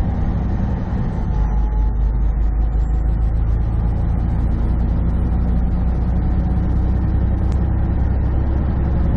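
Semi truck's diesel engine and road noise heard from inside the cab while driving: a steady, loud low drone that holds even throughout.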